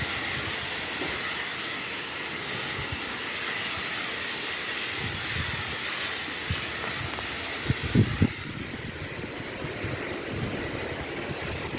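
Steady hiss of a high-pressure water spray at a car wash, with a few short low thumps about eight seconds in.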